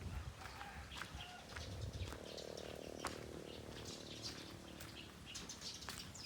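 Faint bird chirps, short and scattered, with a few sharp clicks.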